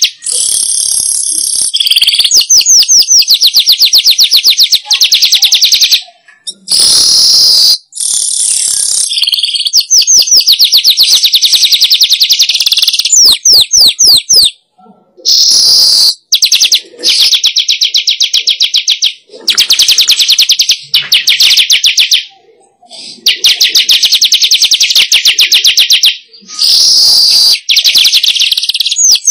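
Recorded weaver bird (manyar) song played as a trapping lure: a loud, rapid buzzing chatter in phrases of a few seconds separated by short pauses, some phrases with quick rising sweeps.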